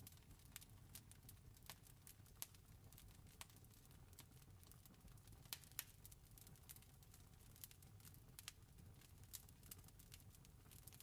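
Wood fire crackling faintly, with irregular sharp pops and snaps over a low, steady rumble.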